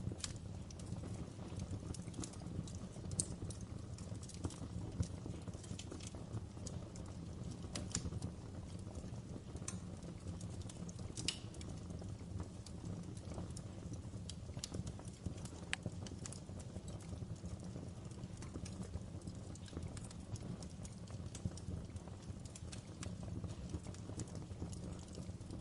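Wood fire crackling in a fireplace: irregular pops and snaps over a steady low rumble.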